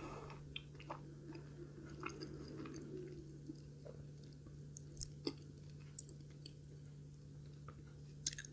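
A person chewing a mouthful of food: faint, soft wet mouth sounds and small scattered clicks, over a steady low hum.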